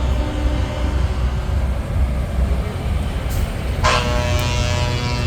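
Heavy trucks' diesel engines rumbling past in a slow procession. Just under four seconds in, a truck horn starts with a sharp onset and is held as one long blast.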